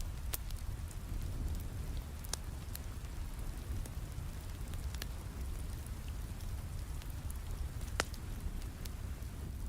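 Steady rain with a low rumble, over which a wood fire in a fireplace crackles with scattered sharp pops; the loudest pop comes near the end.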